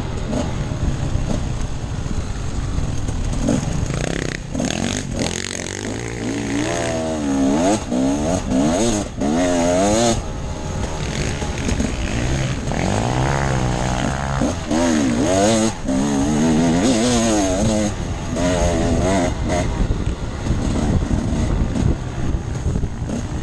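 Off-road enduro motorcycle engine revving up and dropping back again and again as the throttle is opened and closed over rough ground, its pitch climbing in short sweeps between gear changes.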